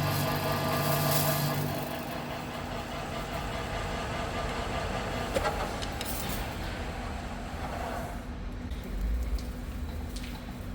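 A workshop machine's motor running with a low pitched hum, then winding down about two seconds in, leaving a fainter steady hum and a few light clicks.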